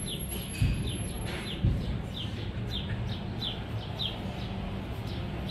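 A small bird chirping over and over, short downward chirps about two a second. Two dull thumps come in the first two seconds, over a low rumble.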